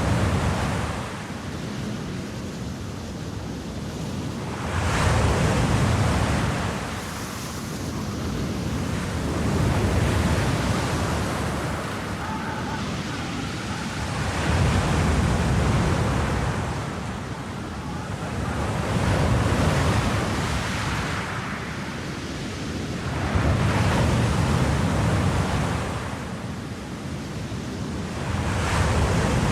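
Wind rushing in gusts that swell and ease about every four to five seconds.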